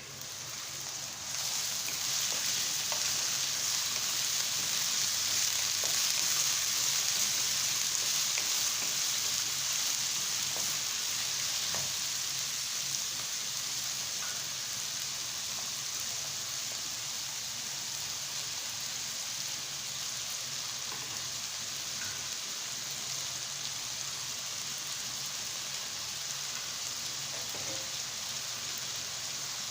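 Food sizzling in hot oil in a pan: a steady hiss that starts suddenly and swells over the first couple of seconds.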